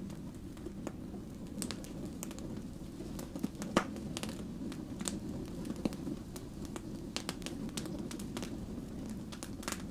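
Wood fire burning with a steady low rush of flame and irregular sharp crackles and pops from the burning logs, one louder pop a little before the middle.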